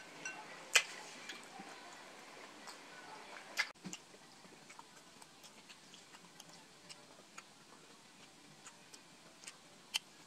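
Close-miked eating sounds: a person chewing grilled skewered street food, making a string of small wet clicks and ticks, with a sharp click about a second in and another near four seconds. Fainter after about four seconds.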